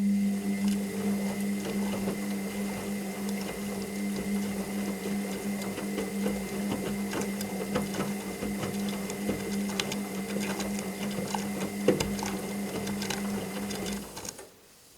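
Washing machine running: a steady electric hum with many small rattling clicks, cutting off about a second before the end.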